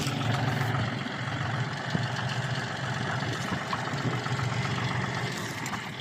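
Tractor's diesel engine running steadily, easing off slightly near the end.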